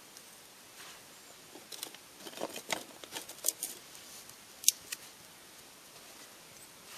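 Dry kindling and thin wood splinters crackling and clicking as freshly lit tinder catches and splinters are laid on. There is a cluster of sharp clicks in the middle, then one loud snap.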